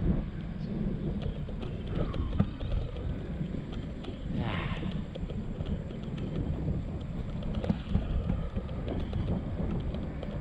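Wind buffeting the microphone of a moving mountain bike, a steady low rumble, with scattered small clicks and rattles and one brief higher pitched sound about halfway through.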